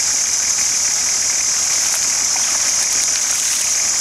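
Nissan Patrol engine idling steadily, with a constant high hiss over it.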